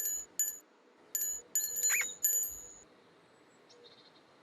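A small bell rung in quick single strikes, five times over a little under three seconds, each ring dying away quickly. A short, high rising squeak comes about two seconds in.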